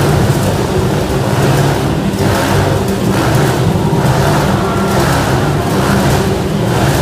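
Motorcycle engines running hard and continuously. The sound swells and fades about once a second as the bikes come close and pull away.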